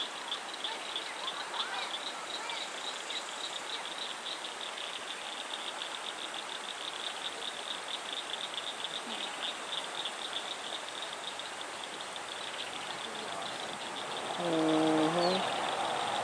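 Evening insect chorus: crickets or katydids chirping in a fast, even pulse over a soft hiss. Near the end, a louder low tone with overtones sounds for about a second and a half, like a distant horn.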